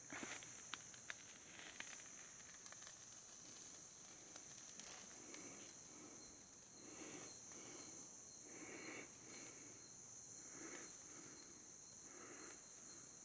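Faint, steady, high insect trill. From about five seconds in there are soft, muffled thumps roughly once a second.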